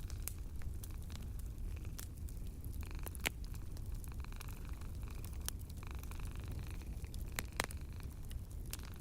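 Wood fire crackling in a fireplace, with scattered sharp pops; the loudest come about three and a half and seven and a half seconds in. Under it runs a low, steady rumble of a cat purring.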